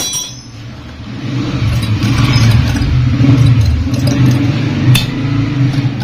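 A motor starts running about a second in with a steady low hum, with a few sharp clicks over it.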